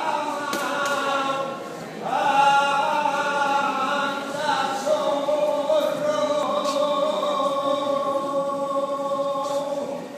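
Solo unaccompanied saeta, the flamenco devotional song of Holy Week, sung in long held, ornamented notes. A short breath comes just before two seconds in, then a long sustained note that fades near the end.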